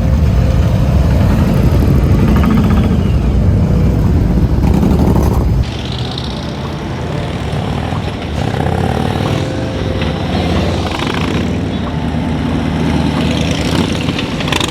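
Motorcycle engines running in a group ride, with a sudden drop to a quieter, different engine sound about six seconds in.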